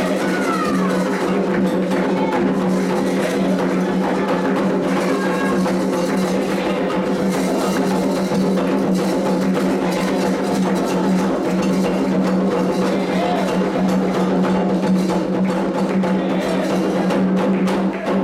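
Candomblé ceremonial drumming on atabaque hand drums: a dense, steady rhythm of strokes, with a steady held tone underneath.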